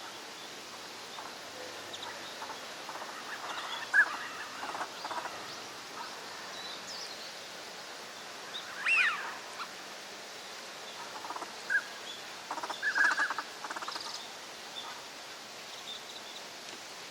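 Northern pintails calling: scattered short calls over a steady background hiss, with a louder falling call about nine seconds in and a quick run of calls near thirteen seconds.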